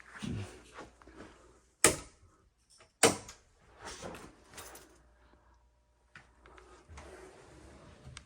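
Handling clatter with two sharp knocks about a second apart, the second followed by further scraping and bumps.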